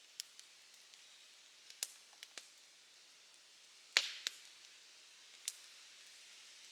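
Campfire crackling: irregular sharp pops and snaps over a soft steady hiss of burning, the loudest snap about four seconds in.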